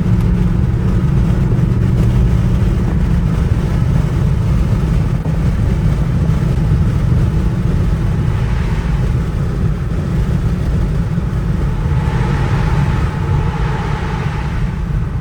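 Dodge Charger R/T's 5.7-litre Hemi V8 running steadily while driving, a deep low rumble, with a hiss swelling in about twelve seconds in.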